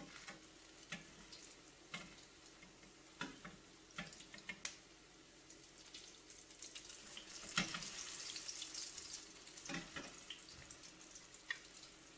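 Potato latkes frying in a pan of hot oil: a faint sizzle that swells louder for a few seconds in the middle as they are flipped, with scattered clicks and taps of a spatula against the pan.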